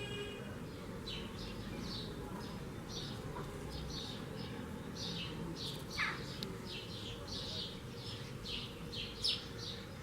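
A small bird chirping over and over in short, high notes, more often toward the end, with one falling note about six seconds in, over a low steady hum of honeybees working flowers.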